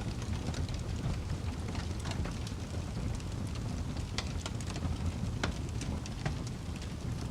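Campfire burning: a steady low rumble with frequent irregular crackles and pops from the wood.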